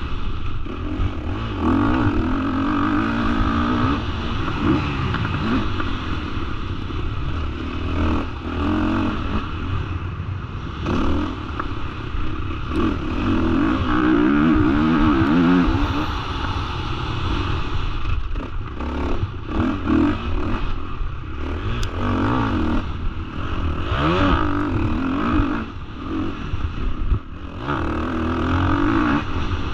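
Honda 450 single-cylinder four-stroke motocross bike being ridden hard, its engine revving up and falling back again and again through the gears and corners.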